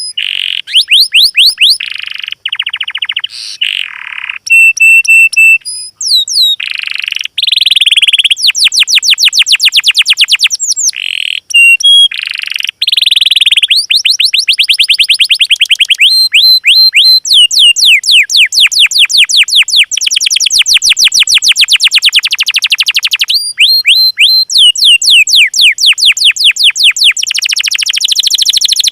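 Recorded songbird song played as a tutor track: loud, fast runs of short, high, downward-sweeping notes, broken by buzzy rattling phrases and brief pauses.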